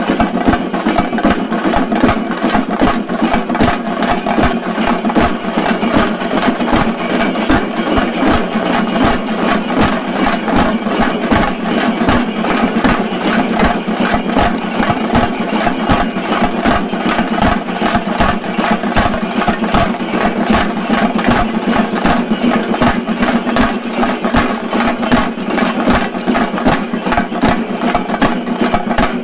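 Chenda drums played in a fast, unbroken roll of stick strokes, as in shinkari melam drumming, loud and dense with no pause.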